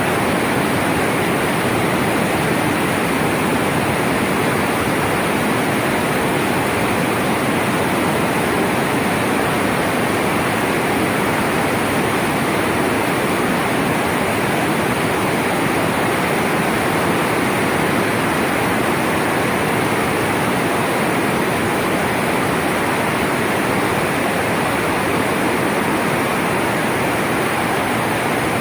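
Floodwater rushing steadily, a loud, unbroken rush of fast-flowing water from a flash flood.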